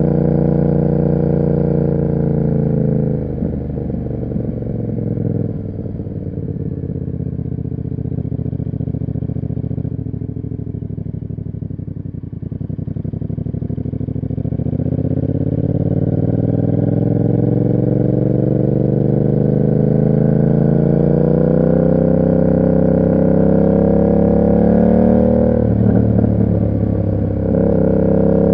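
Yamaha MT-07's parallel-twin engine through an SC Project aftermarket exhaust, heard while riding. The revs drop a few seconds in and stay low for several seconds, then climb steadily for about ten seconds. They dip briefly near the end and rise again.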